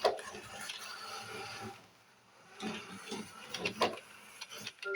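Roomba robot vacuum running and shuffling in a corner, with a sharp knock at the start and uneven scraping and rustling, stuck rather than finding its charging base.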